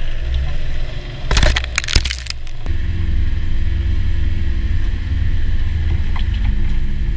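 Land Rover Defender 90 engine running low under load, with a loud burst of cracking and crunching about a second and a half in, after which the engine settles into a steady, heavier drone.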